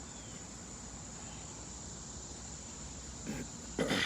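Crickets chirring in one steady, high-pitched, unbroken trill, with a brief louder noise near the end.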